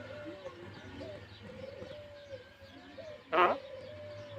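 Myna making soft, low wavering notes, with one loud, short call about three seconds in.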